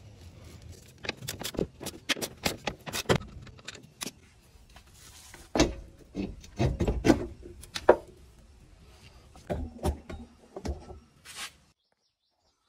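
Irregular metallic clinks, knocks and rattles of hand tools and car suspension parts being handled, densest and loudest about halfway through, then stopping abruptly near the end.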